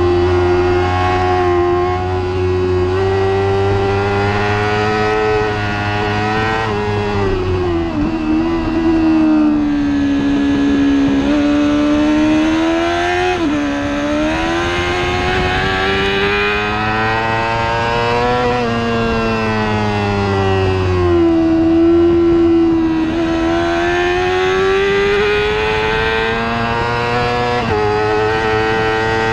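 Superbike racing motorcycle engine running hard under a rushing wind, its note climbing and falling repeatedly with sudden jumps in pitch at gear changes as it accelerates and brakes for corners.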